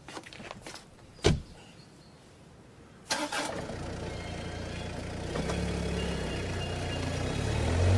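A car door shuts with a single knock, then about two seconds later a car engine starts and runs steadily, growing louder toward the end.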